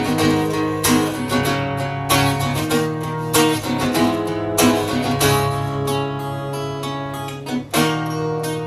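Acoustic guitar strumming chords, with a sharp stroke every half second to a second and the chords ringing between them.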